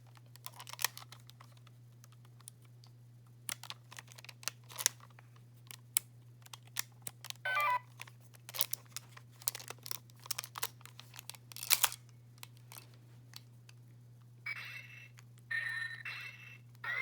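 A battery-powered toy phone being handled: scattered plastic clicks and taps as its buttons are pressed, a brief run of electronic beeps about halfway through, and electronic tones sounding near the end.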